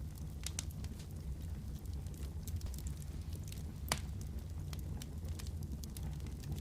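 Wood fire crackling in a fireplace: irregular sharp pops and snaps over a low, steady rumble of the flames, with one louder pop about four seconds in.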